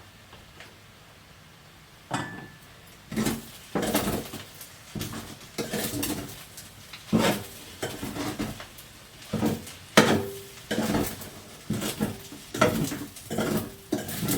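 A spoon scraping and knocking against a pot and dishes while fried rice is dished out, in repeated clinks and scrapes about once or twice a second, starting about two seconds in. A few strikes leave a short ring.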